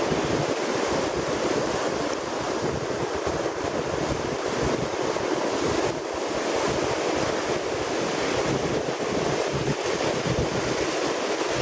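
Steady ocean surf washing on the beach, with wind buffeting the phone's microphone in uneven gusts.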